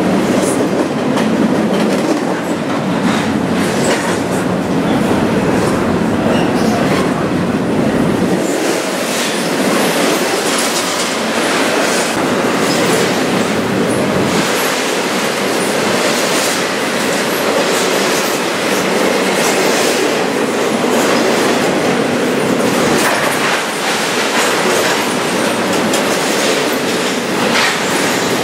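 Double-stack container cars of a Canadian Pacific intermodal freight train rolling past close by: a steady, loud rolling noise of steel wheels on rail, with the clickety-clack of wheels crossing rail joints.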